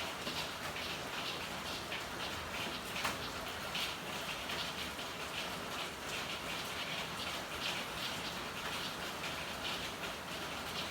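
Steady rain falling, with many close drips and splashes pattering throughout. One sharper drip or tick lands about three seconds in.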